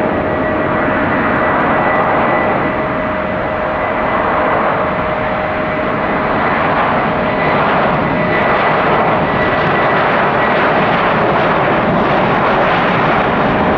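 Jet airliner engines running loud and steady, a dense rush with a thin steady whine over it.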